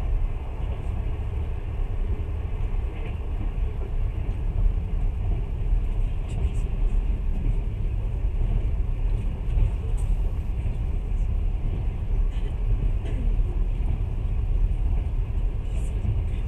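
Steady low rumble of a moving passenger train, heard from inside the carriage, with a few faint clicks scattered through.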